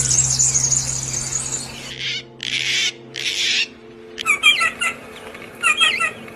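Songbirds calling: a high, buzzy trill at the start, then two short harsh rasping sounds, then a bird's short chirping notes in quick groups in the second half.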